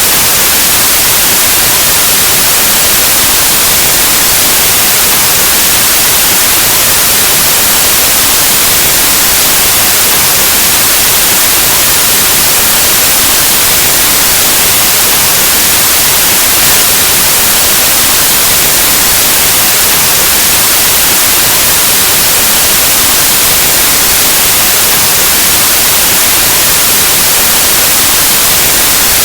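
Steady, loud white noise: an even static hiss across the whole range, like an analog TV or radio tuned between stations, without change or break.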